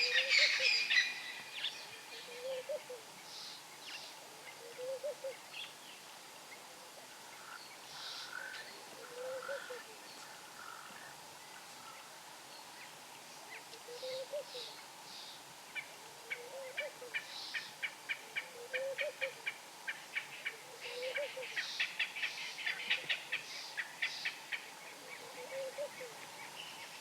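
Wild birds calling in the African bush. A loud squawking call fades out in the first second, and a soft low hoot rises and falls about every two seconds throughout. High chirps and rapid ticking runs come in the second half.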